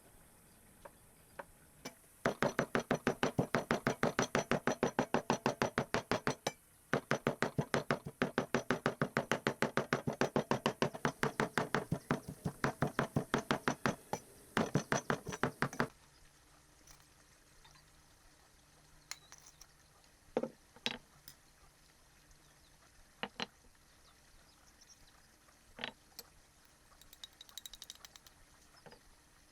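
A knife chopping rapidly on a cutting board, about six even strokes a second with two short pauses, then stopping and giving way to a few scattered knocks.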